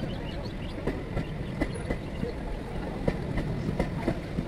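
MEMU electric passenger train's coaches rolling past on the rails: a steady low rumble with sharp, unevenly spaced wheel clicks over the rail joints.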